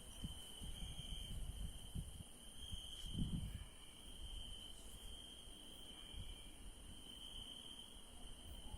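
Night field crickets trilling steadily in a high, unbroken chorus that swells and eases every second or two, over an uneven low rumble that peaks about three seconds in.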